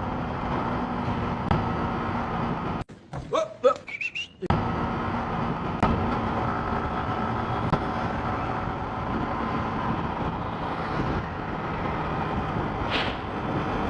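Steady road traffic and vehicle engine noise. About three seconds in it cuts out for a second or so, with a few short pitched tones, then resumes.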